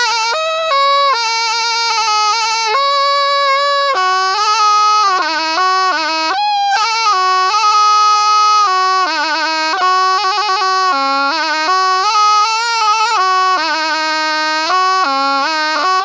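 Thai pi, a double-reed oboe, playing a continuous solo melody. Held notes alternate with quick trills and wavering, ornamented runs.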